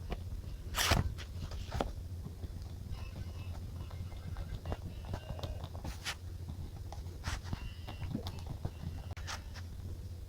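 Desk journaling sounds: several sharp taps and clicks of pen and stationery on paper with brief paper rustles, the loudest tap about a second in, over a low steady hum.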